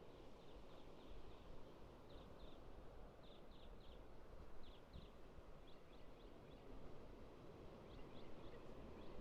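Faint steady wash of surf on the beach, with a bird giving short, high chirps in small groups throughout.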